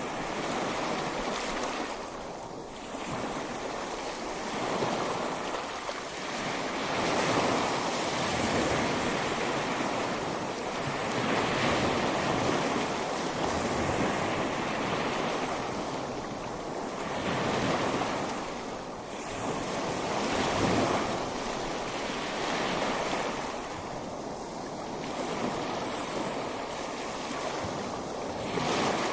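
Ocean waves breaking on a beach in a steady wash of surf that swells and eases every few seconds.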